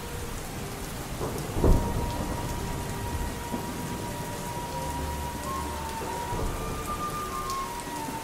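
Steady rain, with one sharp clap of thunder about a second and a half in, the loudest moment, followed by low rumbling. Faint music with long held notes sounds under the rain.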